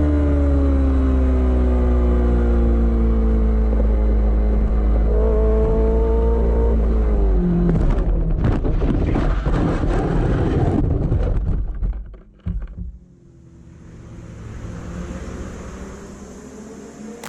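Motorcycle engine running under a heavy low rumble, its pitch falling slowly, then a noisy stretch full of sharp knocks from about eight seconds in that cuts off suddenly near twelve seconds, leaving a quieter sound that swells and fades.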